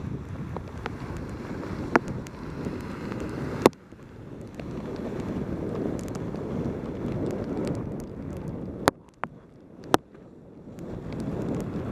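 Wind buffeting a helmet camera's microphone during a fast bicycle descent in pouring rain, a low rumbling rush scattered with sharp clicks. The rush drops away abruptly just before four seconds and again for about a second and a half from around nine seconds, with a few louder clicks there, then returns.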